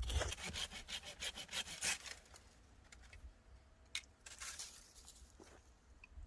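Hand sawing: a quick run of back-and-forth saw strokes for about two seconds, then a few scattered knocks and rustles, with one sharp click about four seconds in.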